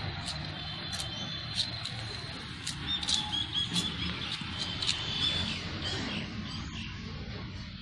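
Small birds chirping in quick, short high notes, busiest in the middle, over a steady low background rumble with scattered clicks.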